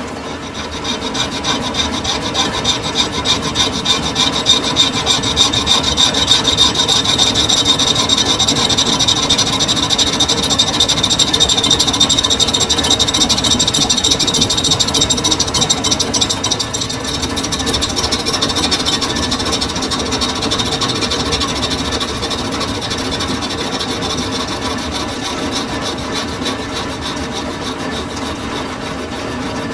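Metal lathe cutting a steel bush for a sugarcane juicer roller, giving a steady high-pitched rasping scrape of the tool against the turning metal. It builds up in the first second or two and eases slightly in the second half.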